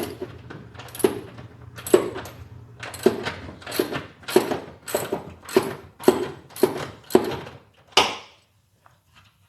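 A hand tool working loose a tight car-seat mounting screw: about a dozen short metallic clicking strokes, one every half second to a second and coming a little quicker as it goes, stopping about eight seconds in.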